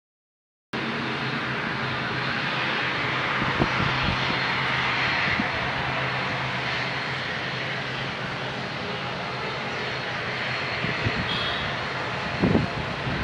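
Boeing 777's twin jet engines running as it arrives to land, a steady rushing noise with a low hum that swells and eases slowly. The sound cuts in suddenly just under a second in, after a moment of silence.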